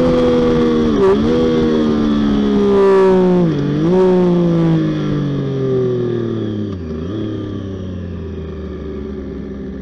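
Triumph Daytona 675R's 675cc three-cylinder engine heard onboard, winding down from high revs as the bike slows, its pitch falling steadily. Three downshifts show as short dips in pitch, about one, three and a half and seven seconds in. After the last one it settles into a low, steady note in neutral.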